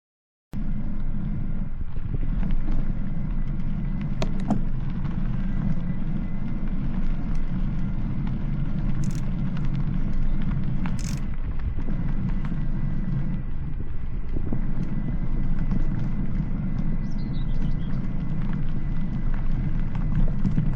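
Steady low rumble of a vehicle running and on the move, starting abruptly about half a second in, with a faint steady high whine over it. A bird chirps briefly near the end.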